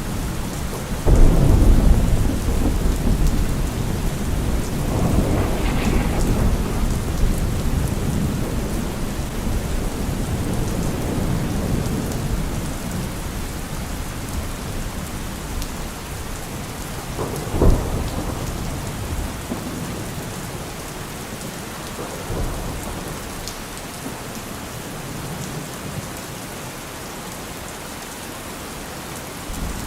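Steady rain with rolling thunder. A loud clap of thunder about a second in rumbles on for several seconds, a sharper crack comes just before the midpoint, and the rumbling fades toward the end, leaving the rain.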